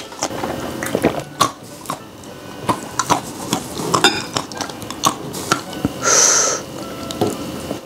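Close-up eating sounds: chewing and wet mouth clicks and smacks on a mouthful of steamed bun, with a short hiss about six seconds in.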